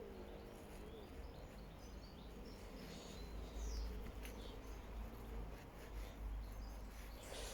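Faint outdoor ambience: a steady low rumble, with a few faint, short bird chirps in the middle.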